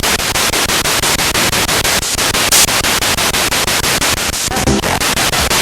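Spirit box radio sweeping through stations: loud static chopped into about seven or eight quick steps a second, with a short fragment of pitched radio sound about three-quarters of the way through.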